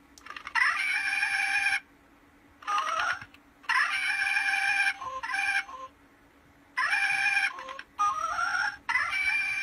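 Hasbro giant Porg plush toy playing its electronic Porg sound effects: a string of about seven short, bird-like squawks and chirps, several rising in pitch at their start.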